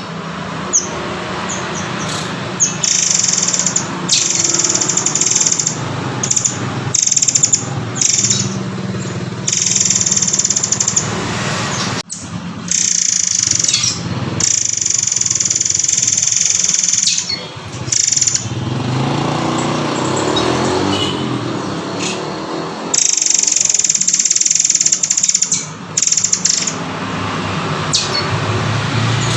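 Murai air (murai kopi) bird singing: repeated high-pitched, drawn-out trilling phrases, each lasting a second or two with short gaps, over a steady low background rumble.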